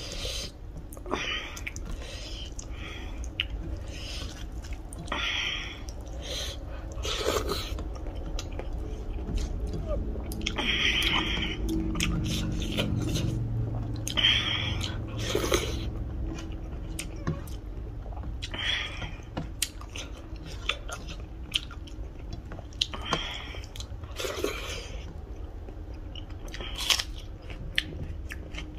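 Close-up chewing and mouth smacking of a person eating rice and chicken curry by hand, with short wet smacks coming every second or two.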